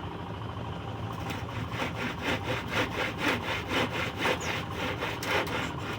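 Hand saw cutting through a piece of scrap wood, with quick back-and-forth strokes at about four a second that grow louder after about two seconds.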